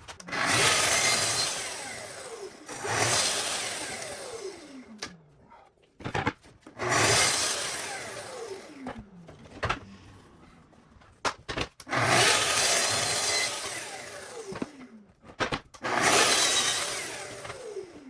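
Power saw cutting wood in a run of short cuts, about six. Each starts suddenly and fades over a couple of seconds as the blade winds down, its pitch falling steadily.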